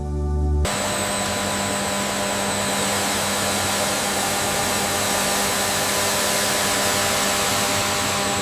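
Factory machinery running with a steady whir and a constant high whine. It cuts in abruptly under a second in as the music stops, and holds level throughout.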